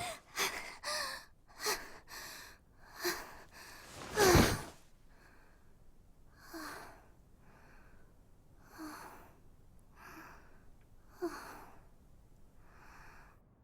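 Heavy panting, out of breath: a quick run of breaths, the loudest a little past four seconds in, then slowing to about one breath a second, some with a short voiced catch.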